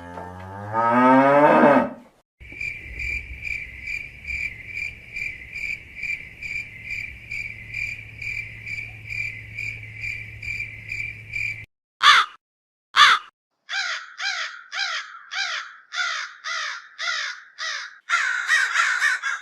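A string of different animal calls, one after another: first a low call rising steeply in pitch, then a long run of rapid, evenly spaced high chirps about three a second, then two sharp short calls, and finally a series of short calls that each fall in pitch, repeated about twice a second.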